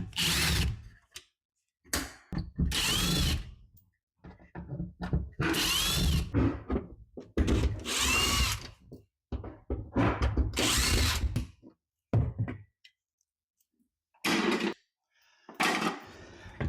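Power drill running in about eight short bursts with pauses between, its pitch rising and falling within the bursts.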